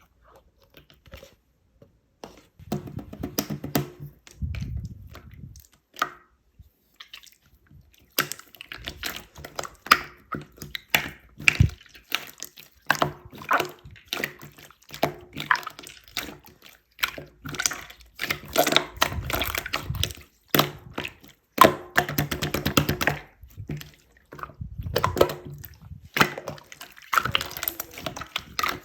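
Slime being squished and pressed by hand, giving a run of wet clicks and small pops that starts a couple of seconds in and grows busier.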